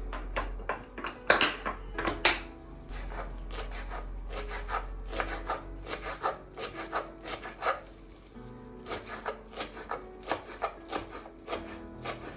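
Repeated short scrapes and taps of kitchen food preparation, a few louder ones about a second and two seconds in, over soft background music.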